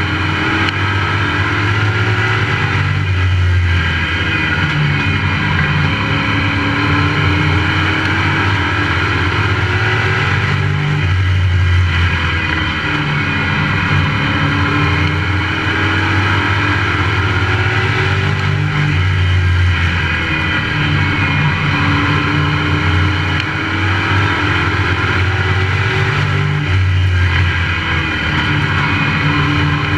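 Race truck engine heard onboard at racing speed, its pitch dropping and climbing again in a repeating cycle about every eight seconds as the driver lifts for the turns and accelerates down the straights.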